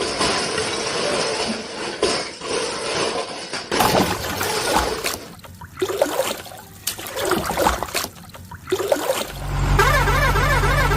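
Water splashing and churning in choppy, irregular surges, as a truck goes into a river. Near the end a truck engine starts running with a steady low hum.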